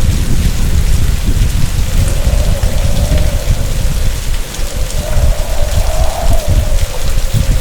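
Typhoon storm: heavy rain pouring with a constant low rumble. A faint tone wavers slowly up and down above it, like wind whistling.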